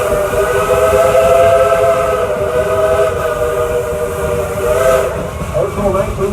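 Steam locomotive's chime whistle blowing one long, loud, steady blast, several notes sounding together over a hiss of steam. The blast cuts off about five seconds in.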